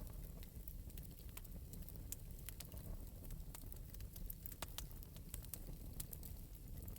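Wood fire in an open metal fireplace crackling lightly: irregular small pops and snaps, several a second, over a low steady rumble.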